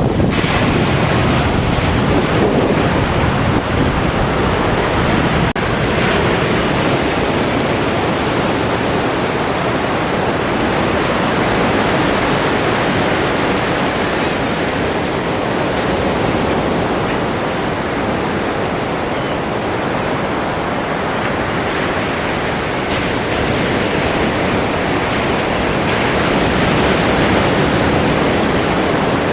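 Ocean surf: a continuous wash of breaking waves, easing a little in the middle and swelling again near the end.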